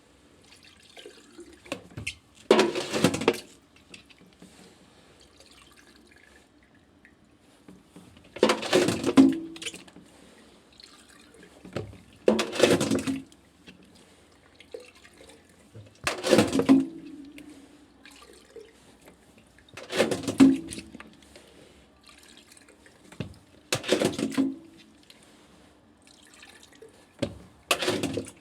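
Water splashing in short bursts of about a second each, seven times, mostly about four seconds apart, with quiet between: water in a washing machine that has not drained.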